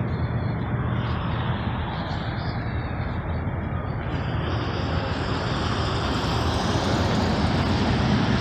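Steady road traffic noise, with a vehicle passing that grows louder in the second half.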